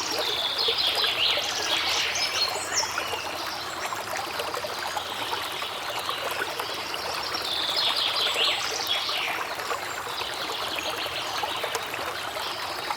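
Water trickling and splashing steadily, with clusters of bird chirps near the start, about two-thirds in and toward the end.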